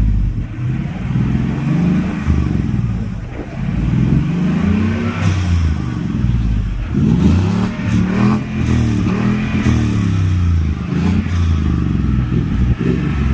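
A Ford's engine being revved repeatedly through a temporary exhaust with a MagnaFlow muffler and a resonator, its pitch rising and falling with each blip of the throttle. The exhaust note is subdued, too quiet in the owner's view.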